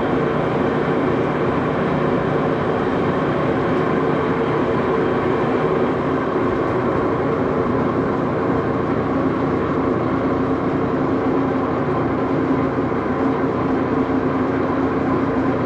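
Axelson lathe running steadily while its tool cuts a small screw blank: a continuous machine hum with several held tones over dense noise.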